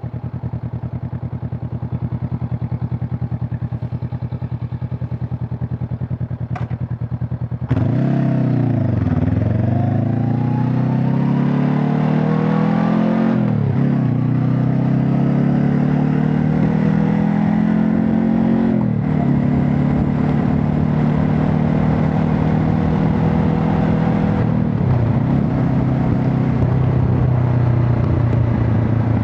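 Honda CB500 Hornet's parallel-twin engine running steadily for about eight seconds. It then gets suddenly louder as the bike pulls away, rising in pitch and dropping back at three upshifts, before settling to a steady cruise near the end.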